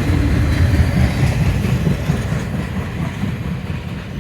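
Intermodal freight train rolling past, its wheels clattering over the rails with a heavy rumble that eases off slightly near the end.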